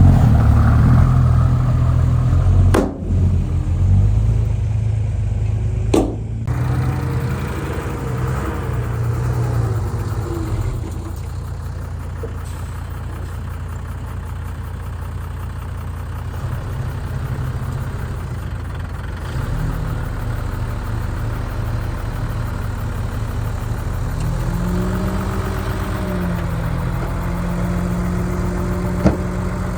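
Heavy diesel engine of earthmoving equipment running at low revs, louder for the first few seconds. There are two sharp knocks, about three and six seconds in, and a brief rise and fall in engine pitch near the end.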